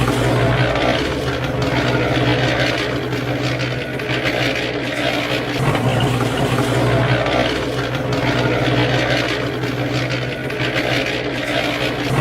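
A small motor running steadily with a constant low hum, the kind that drives a miniature model tractor or truck.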